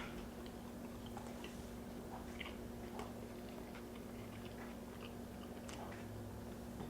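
Quiet chewing close to the microphone: soft, scattered mouth clicks and smacks of someone eating, over a faint steady hum.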